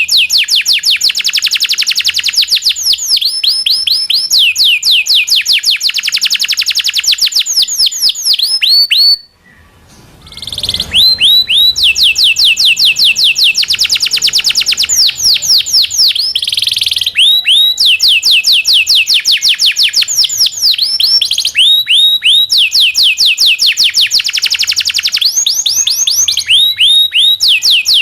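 Local canary singing long trilled rolls: fast runs of identical repeated notes, each run changing to a new note type every second or two. The song stops briefly about nine seconds in and resumes.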